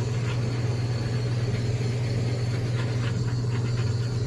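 Steady low electric hum of a running motor, with a few faint light clicks.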